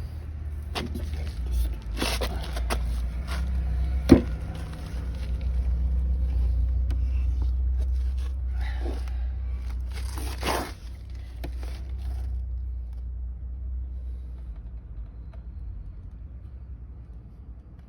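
Metal tools and engine parts being handled: scattered clicks and scrapes, with one sharp knock about four seconds in, over a low steady rumble. The sounds thin out in the last few seconds.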